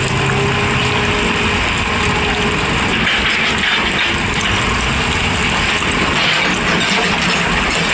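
Excavator engine and hydraulics running steadily, a dense rushing mechanical noise with a faint steady hum and no distinct hammer blows.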